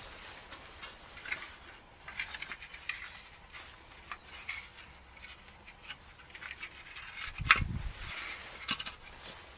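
Scattered light clicks and clinks of small hard objects being handled, with one louder knock about seven and a half seconds in.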